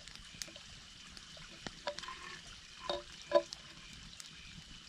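Water being poured into a canteen, a faint trickle with scattered light clicks. Two louder knocks with a short ring come about three seconds in.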